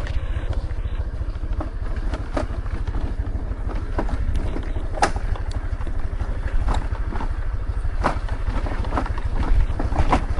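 Motor scooter being ridden on a rough road: a steady rumble of engine and wind on the microphone, with scattered knocks and rattles as it hits bumps.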